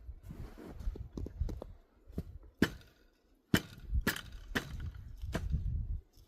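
Footsteps crunching through deep snow, a sharp crack with each step about every half second to second, over a low rumble of wind on the microphone.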